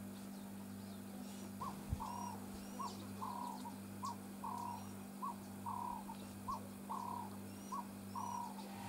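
A bird calling over and over in two-note phrases, a short note followed by a longer one, about seven times at an even pace, with a few faint high chirps from other birds. A single sharp knock sounds about two seconds in, over a steady low hum.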